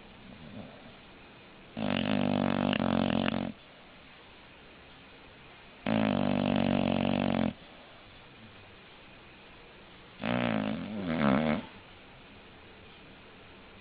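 English bulldog snoring: three loud snores about four seconds apart, the last one broken in two with a wavering pitch.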